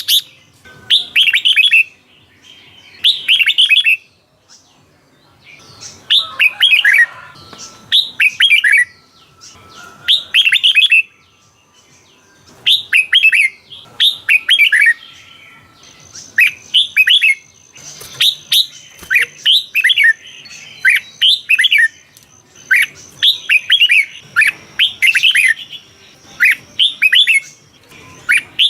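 Red-whiskered bulbul singing: short, bright, warbled phrases about a second long, repeated every one to two seconds.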